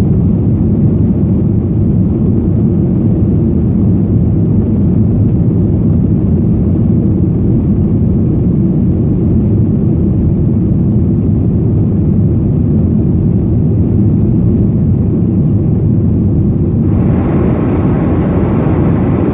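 Boeing 737-800's CFM56 jet engines and airflow heard from inside the cabin: a loud, steady rumble of departure or climb. Near the end a higher hiss suddenly joins the rumble.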